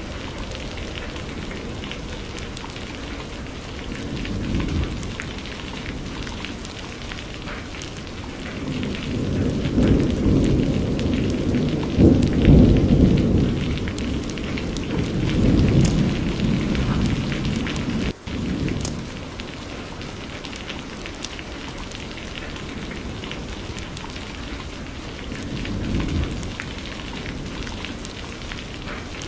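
Steady rain with rolls of thunder rumbling in and out. The thunder comes several times and is loudest about twelve seconds in.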